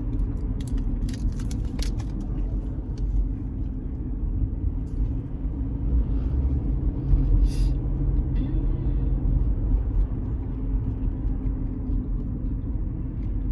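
Steady low road rumble of a car driving, heard from inside the cabin, with a few light clicks near the start.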